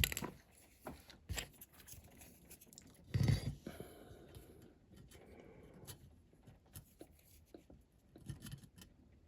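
Faint small handling noises at a workbench: light clicks, taps and scratches as a diecast model casting and a wooden stick are handled and marked, with one louder knock about three seconds in.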